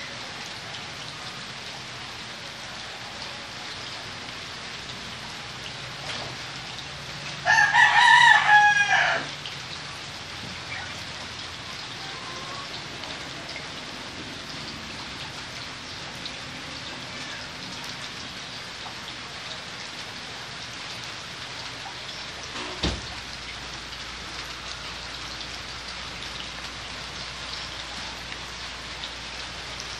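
A rooster crows once, about eight seconds in, over a steady rain-like hiss. A single short click comes near the end.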